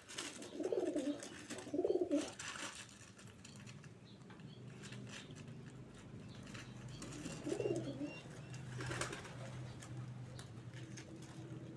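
Domestic pigeons cooing, with three low, warbling coos: about a second in, at two seconds, and near eight seconds. Scattered light clicks of beaks pecking at rice.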